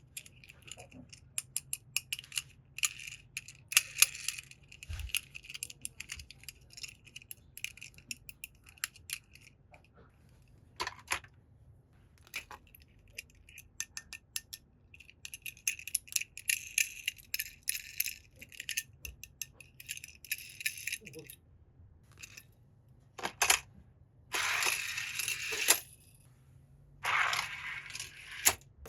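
Small die-cast toy cars handled and knocked together, a run of sharp clicks and rattling clinks, with two longer scraping or rustling bursts near the end.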